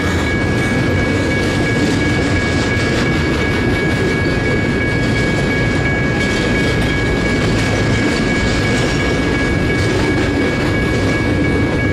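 Double-stack container train rolling steadily past: a continuous rumble of steel wheels on rail with the clickety-clack of the well cars passing. Two steady high tones are held over it throughout.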